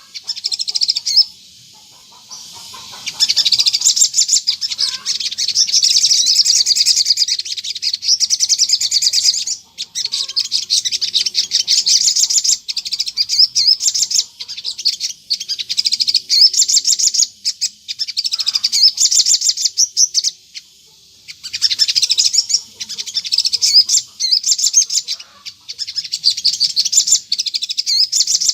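Sogon, a sunbird, singing the rapid, chattering 'ngleper' song used as a lure call. High, fast trills in bursts of a few seconds, with short pauses between them.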